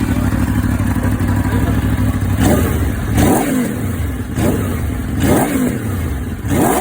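Motorcycle with an aftermarket exhaust idling, then revved in five quick throttle blips, each rising and falling in pitch, from about two and a half seconds in.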